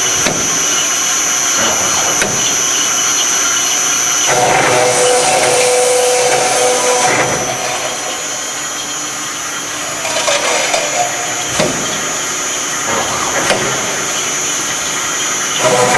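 MEP Tiger 370 CNC automatic metal-cutting saw running through its cutting cycle, with a steady high whine. A lower tone joins for a few seconds about a third of the way in and again at the end.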